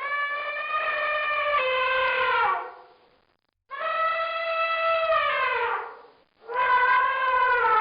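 Elephant trumpeting: three long, brassy calls, each held steady and then sliding down in pitch as it ends.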